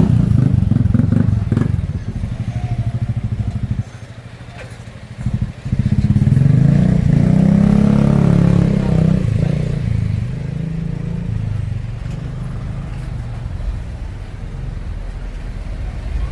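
Motorbike engines in street traffic. One runs nearby with a fast, even pulse, goes quiet briefly about four seconds in, then a louder one passes close by about eight seconds in, its pitch rising and falling as it goes.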